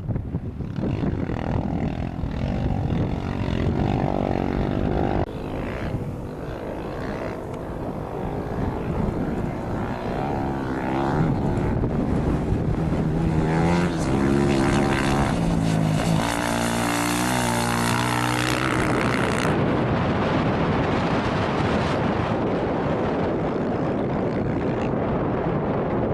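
Off-road rally vehicle engine revving hard and climbing in pitch through several gear changes as it races past, over a steady rumble of wind on the microphone.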